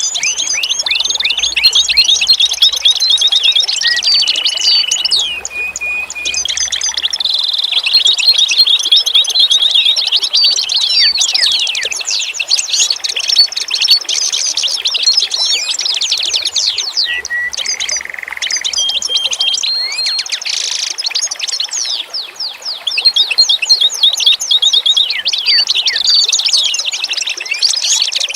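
A dense chorus of songbirds singing at once: rapid overlapping chirps, fast trills and short held whistles, high-pitched throughout.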